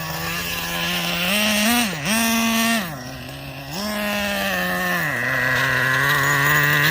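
Traxxas Revo 3.3's two-stroke TRX 3.3 nitro engine running, its pitch rising and falling several times as the throttle is worked, with a quieter, lower spell about three seconds in. The tank is nearly out of fuel.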